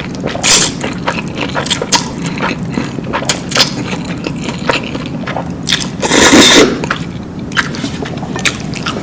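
Close-miked eating: a mouth biting and chewing crunchy food, with a dense run of sharp crackles and one louder, longer crunch about six seconds in.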